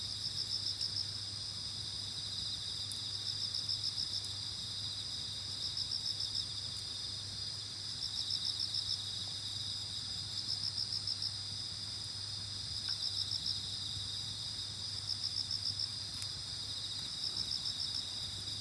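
Night insect chorus: crickets trill steadily, with louder pulsed chirp trains coming about every two to three seconds.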